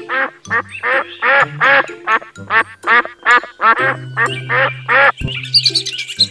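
Duck quacking in a quick series, about three quacks a second, stopping about five seconds in, over background music with a steady bass line. High chirping starts near the end.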